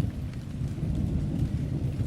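Distant thunder rumbling low and continuously, with a faint patter of light rain.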